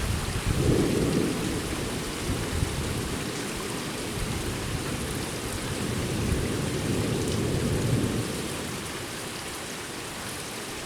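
Steady rain with low rolling thunder from a night thunderstorm, swelling about a second in and again around six to eight seconds before dying away near the end.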